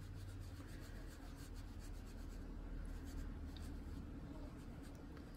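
Faint, steady rubbing of a colouring tool worked in short strokes over paper.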